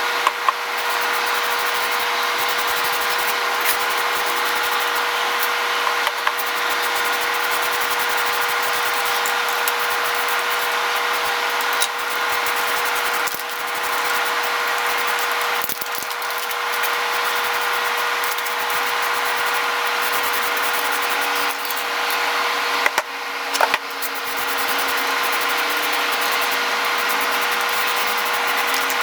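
An electric power tool running steadily with a constant motor hum while abrading a workpiece, giving a continuous scraping noise, with a few brief dips as the tool is lifted or eased off.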